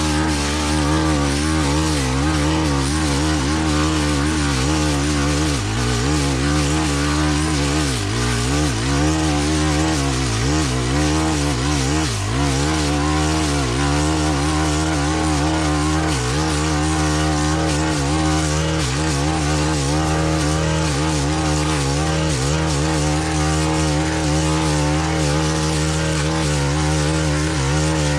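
Stihl FS-131 brush cutter's small four-stroke (4-MIX) engine running at high revs as its mulching blade cuts dense canary grass. The pitch wavers and dips now and then as the blade takes on load.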